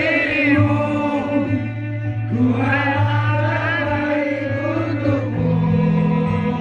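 Indonesian pop song playing: a sung vocal over a steady bass and backing that holds until about five seconds in, when the singing ends and the instruments carry on.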